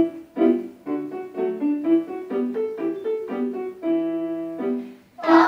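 Piano playing a short melodic introduction to a Bulgarian children's folk song, one note at a time with a long held note near the end. A children's choir starts singing right at the very end.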